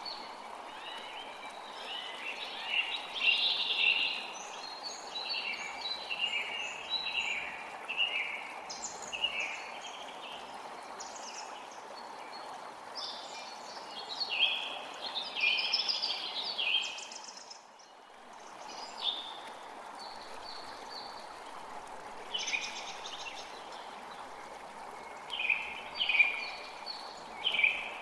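Forest creek flowing steadily, with several birds singing in short bursts of high calls over the water. The whole sound dips briefly about two-thirds of the way through.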